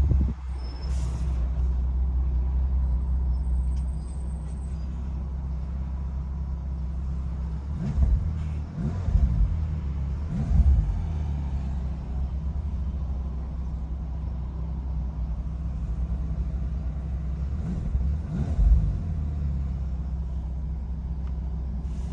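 Bentley Continental GTC Speed's twin-turbo 6.0-litre W12 engine idling after a cold start. The idle runs a little higher for the first few seconds, then settles. The engine is revved briefly three times in quick succession near the middle and once more later.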